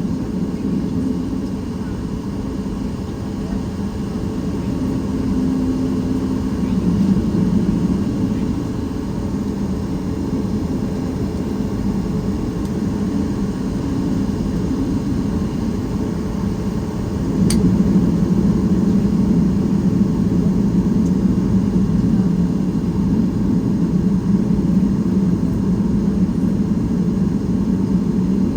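Steady low cabin hum inside a Boeing 737 MAX 8 airliner on the ground before takeoff. A single sharp click comes a little past halfway, after which the hum gets somewhat louder.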